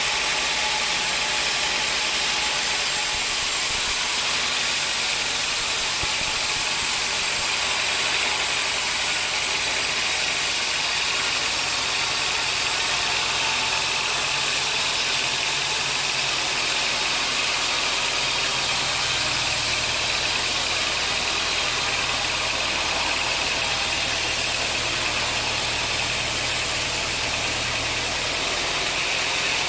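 Sawmill machinery running steadily: a constant, even mechanical din with no sharp knocks or changes.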